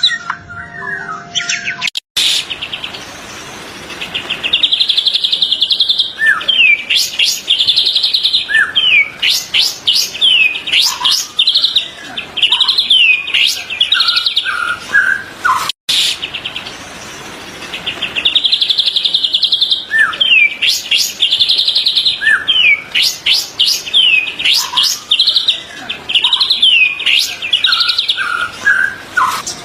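White-rumped shama (murai batu) song: rapid buzzy trills, quick falling whistles and short chirps in a varied, loud phrase. The same stretch of song, about 14 seconds long, plays twice, each time after a brief cut to silence.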